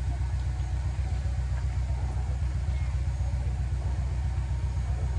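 A heavy machine's diesel engine running steadily at idle, a low, even throb.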